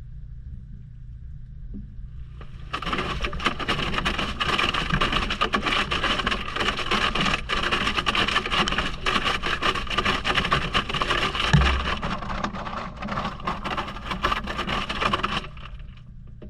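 Maytag washing machine heard from inside the tub: a steady low hum throughout, and from about three seconds in until near the end, a loud rush of churning, splashing water with many small knocks that starts and stops abruptly.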